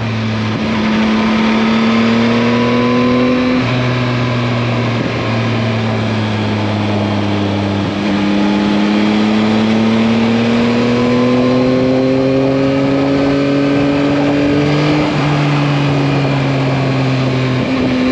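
Yamaha MT-09's 890 cc three-cylinder engine running under light throttle while riding, its pitch climbing slowly and dropping back three times, at about four, eight and fifteen seconds, as it shifts up. A steady rush of wind noise sits underneath.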